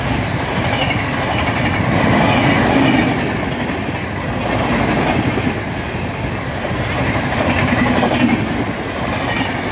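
A train running along the track, a steady rumble of wheels clacking over the rails that swells and eases every few seconds.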